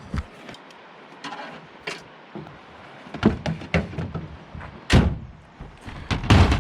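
Truck doors being opened and shut, with a few latch clicks and knocks followed by two heavy door thuds about a second apart near the end.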